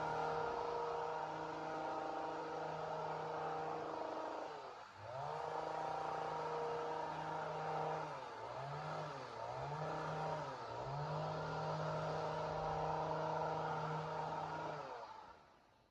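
Chainsaw engine running at high revs with a steady whine. Its pitch drops and climbs back about five seconds in, and twice more a few seconds later. The sound fades out near the end.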